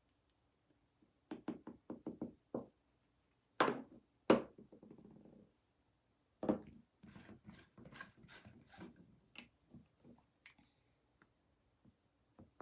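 Light knocks and taps of craft pieces being handled and set down on a tabletop: a quick run of small taps, then two sharper knocks about four seconds in, then scattered clicks.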